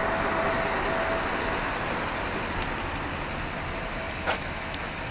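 Steady road and engine noise inside a moving vehicle, with one short click about four seconds in.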